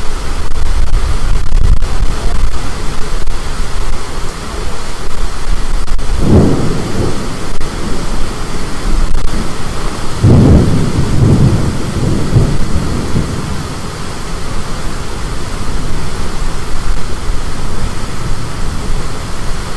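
Thunder rumbling twice, briefly about six seconds in and again for a few seconds starting about ten seconds in, over a steady rush of high wind and rain.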